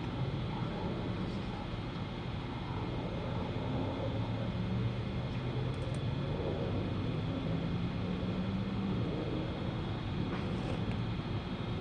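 An engine running steadily nearby, its low drone drifting slightly up and down in pitch.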